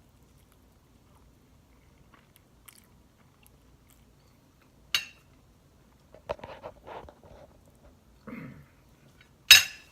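Close-up eating sounds of a person chewing spaghetti and bread, with faint ticks and a sharp click about halfway. Clusters of chewing come in the second half, and a loud, sharp noise follows near the end.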